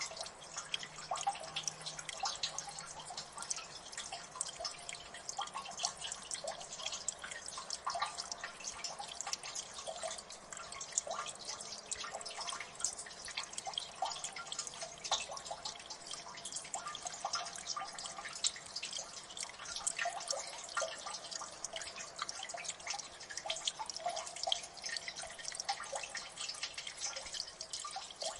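Water dripping in a gully: many irregular drops falling several times a second, some landing with short pitched plinks, over a faint steady trickle.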